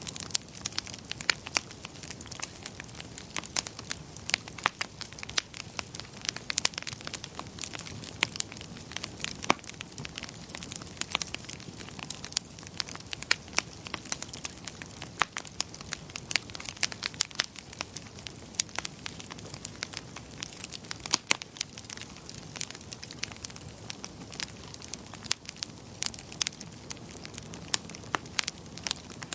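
Wood fire crackling in a fireplace: frequent irregular pops and snaps over a low, steady rush of burning.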